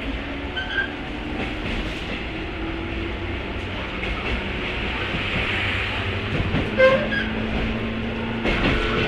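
A 103-series electric train motor car with MT55 traction motors running, heard from inside the car: a steady rumble with the click of rail joints and a faint motor whine. A short sharp sound stands out about seven seconds in.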